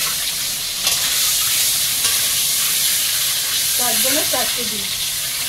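Boiled eggs and potatoes sizzling steadily as they fry in hot oil in an aluminium kadai, with a couple of light clinks of the metal ladle against the pan near the start.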